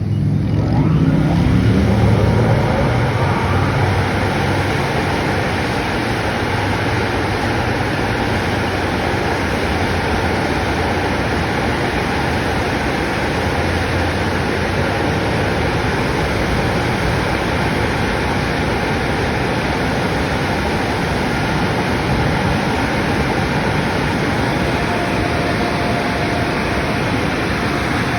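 Laserwash M5 touch-free car wash spraying high-pressure water over a car: a loud, steady hiss of spray that comes on suddenly, with a heavier low rumble in the first few seconds.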